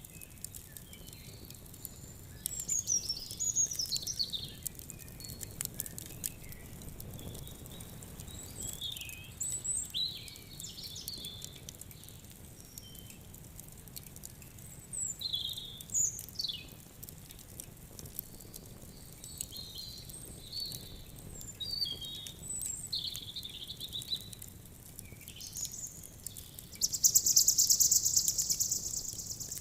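Songbirds calling and chirping in short, high, varied phrases over a campfire crackling with scattered small pops. Near the end, a loud high buzzing trill lasts about two and a half seconds.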